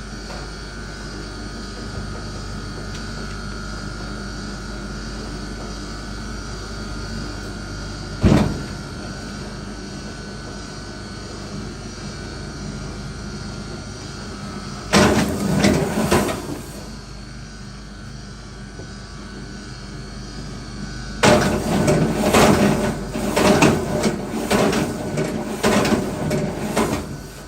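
Knocks and clatter over a steady hum: one sharp knock about eight seconds in, a short burst of knocks a little past halfway, then a longer run of knocking and clattering near the end.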